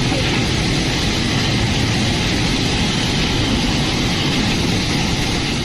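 Strong storm wind blowing hard and buffeting the microphone, a steady, loud rushing noise with deep rumble.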